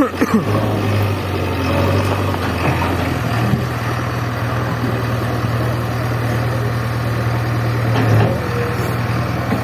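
JCB 3DX backhoe loader's diesel engine running steadily with a low, even hum.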